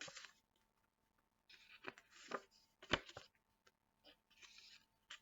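Faint rustling and a few sharp taps of paper flashcards being handled and flipped.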